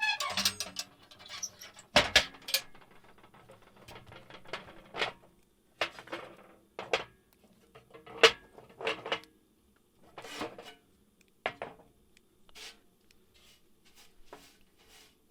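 Irregular knocks and clinks of cooking gear being handled, about a dozen separate strikes with pauses between them, some ringing briefly.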